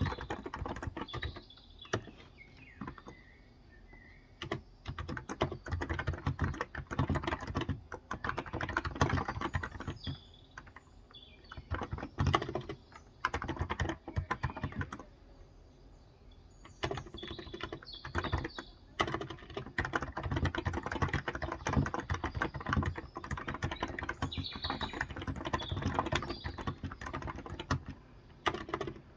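Typing on a Cox Endeavor electrostatic capacitive (Topre-style) keyboard with light 35 g switches: fast runs of soft key clacks in bursts, with short pauses about 2 seconds in and again around the middle.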